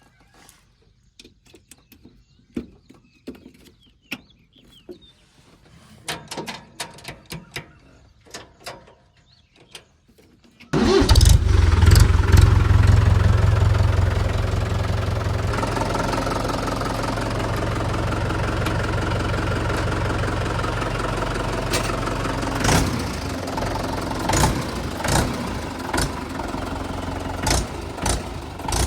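Scattered light clicks and knocks, then about ten seconds in a diesel engine starts abruptly. It is loudest for the first few seconds, then settles into a steady idle with a deep rumble and an occasional knock.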